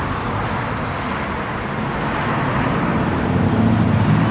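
Road traffic noise: a steady wash of passing vehicles, with a vehicle's engine hum growing louder near the end.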